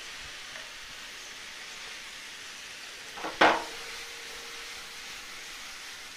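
Marinated button mushrooms sizzling in butter in a nonstick frying pan while being stirred, a steady frying hiss. About three and a half seconds in there is one sharp clank against the pan that rings briefly.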